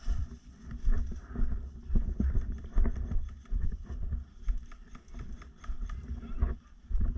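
Footsteps and gear rustling close to the microphone: irregular low thumps, a few a second, with rustling between them.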